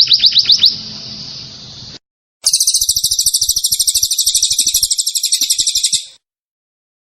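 Recorded songbird song: a fast series of high down-slurred notes ends just under a second in. After a short break comes a dense, high, buzzy trill lasting nearly four seconds that cuts off abruptly, as in an edited song-tutor track.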